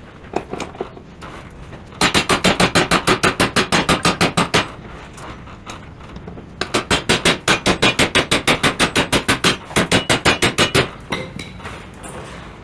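Rapid metal hammer strikes, about seven a second, in three runs separated by short pauses. The blows are driving a tight, seized part of an antique sawmill until it starts to move.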